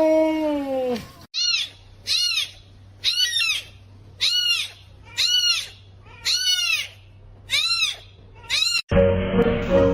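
A long, low, falling call in the first second. After a cut, a kitten meows over and over in high, thin mews, about eight times at roughly one-second intervals, each mew rising and then falling. Music comes in near the end.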